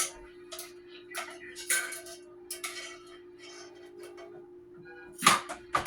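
Kitchen clatter while cooking: a run of light clicks and taps of utensils and cookware, with two louder knocks close together near the end, over a steady hum.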